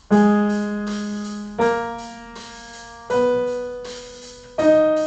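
Piano plays four single notes about a second and a half apart, each struck and left to ring. The notes form a short ear-training pattern for students to echo back.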